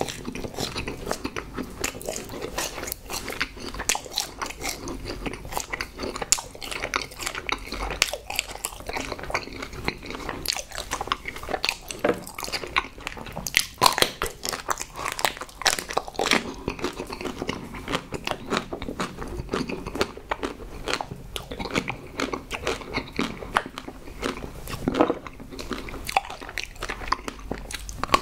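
Close-miked eating: biting into and chewing a chocolate-coated marshmallow and chocolate truffles, a dense run of wet mouth clicks and small crunches.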